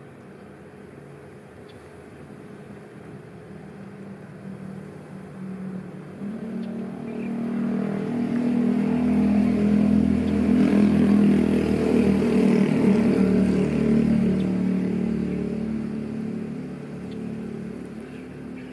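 A motor vehicle's engine passing by: it builds over several seconds, is loudest about halfway through, then fades away.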